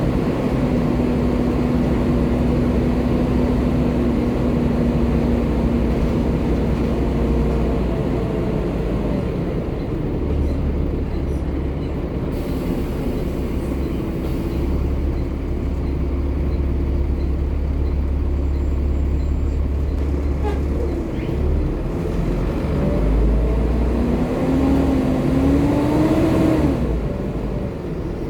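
Volvo B7TL double-decker bus's diesel engine running as the bus drives, its note holding steady for a long stretch, then rising for a few seconds near the end as it picks up speed and falling away just before the end, like a gear change.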